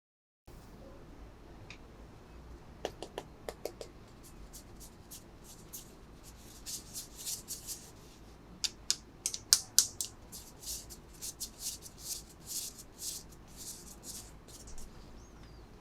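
Hands handling plastic packaging and small items: a series of quick, crisp clicks and crackles, a few early on, then a dense run in the second half that thins out near the end.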